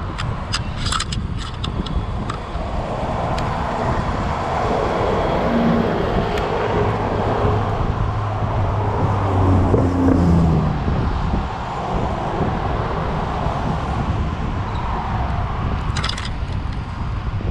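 City road traffic heard from a moving bicycle: a motor vehicle's engine swells and passes close by, loudest from about four to eleven seconds in, over a steady low wind rumble on the microphone. There are a few short clicks and rattles near the start and again near the end.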